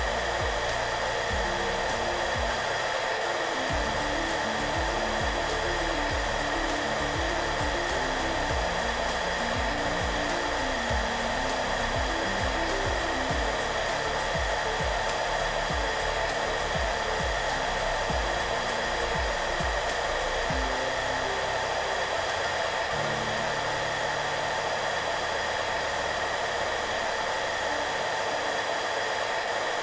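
Hair dryer running steadily, an even rushing hiss with a few steady tones in it, over soft background music playing slow low notes.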